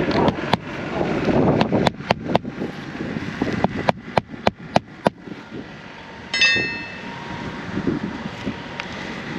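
Hammer driving roofing nails into asphalt shingles: a run of about ten sharp strikes, coming closer together around four to five seconds in, then a short metallic ring about six seconds in. Wind on the microphone throughout.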